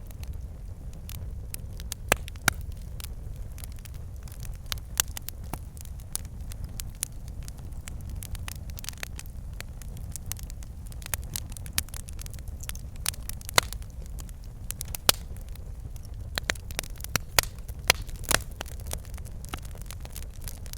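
Wood fire burning in a fireplace: a steady low rumble of flames with frequent irregular crackles and occasional sharper pops from the logs.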